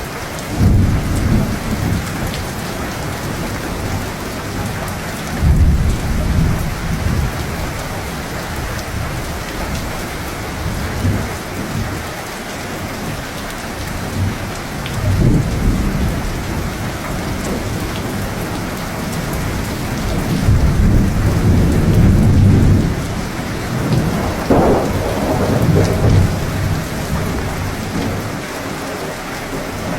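Steady heavy rain falling, with rolls of thunder rumbling several times: briefly about a second in, around six and fifteen seconds, and a longer, louder roll in the last third.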